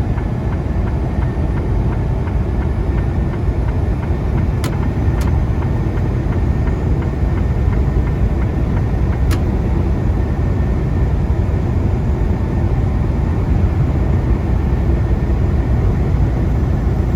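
Steady low rumble of a Freightliner Cascadia semi truck cruising at highway speed, heard from inside the cab: engine drone mixed with road and tyre noise. There are a few faint ticks about five and nine seconds in.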